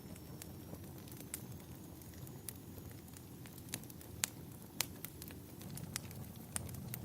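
Wood fire burning in a fireplace: a low steady rumble with scattered sharp crackles and pops, the two loudest pops a little past halfway.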